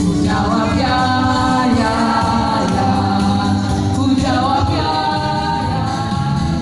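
Worship band rehearsing a gospel song: several voices sing long held notes over steady band accompaniment.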